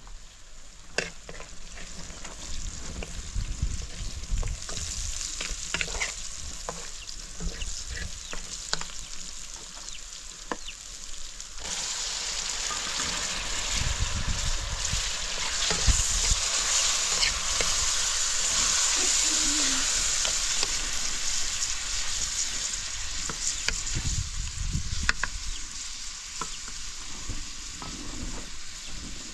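Food frying, with a steady sizzle and scattered clicks and knocks. The sizzle grows louder about twelve seconds in and eases off again near the end.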